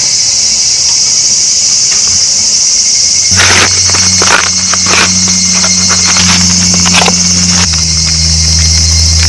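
A steady, loud insect chorus of crickets or similar chirring insects, pitched high. From about three seconds in, a low steady hum joins it and shifts in pitch twice, with a few sharp clicks in between.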